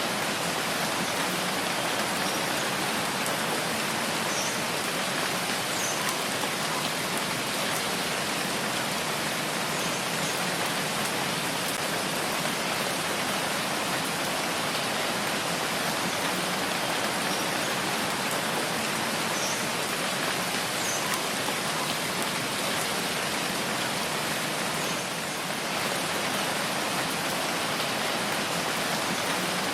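Steady rain falling, an even dense hiss with a few faint drop ticks.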